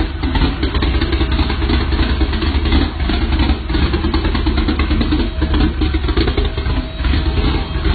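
Loud vehicle exhaust running steadily with a rapid pulsing rumble.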